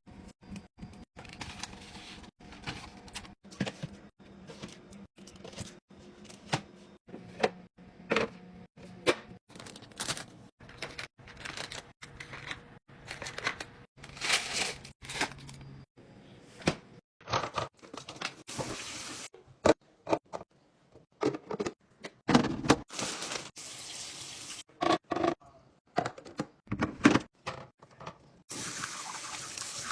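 Kitchen restocking sounds: a steady run of clicks, taps and knocks as containers and packaging are handled and set down, broken by three short stretches of running water near the end.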